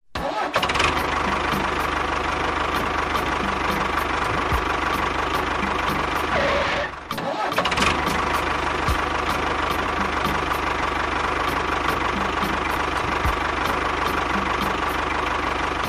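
Small motor running steadily, with light irregular ticking; it cuts out briefly about seven seconds in and then runs on.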